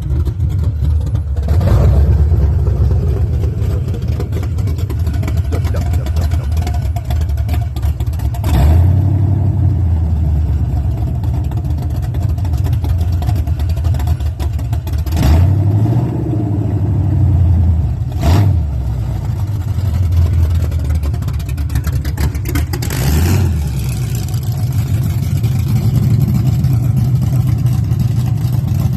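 Cammed small-block Chevy V8 in a 1981 GMC 1500 running at idle and revved in short throttle blips about five times, each dropping back to idle. The engine has an aggressive, built sound from its aftermarket camshaft.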